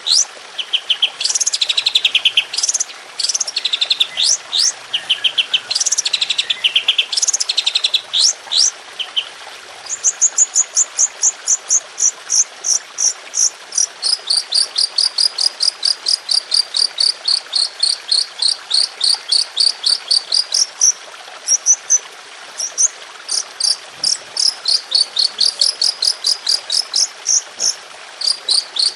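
Songbird masteran recording: varied fast high trills for about the first ten seconds, then long runs of sharp repeated high notes, about three a second, in the rapid 'tembakan' (shooting) style.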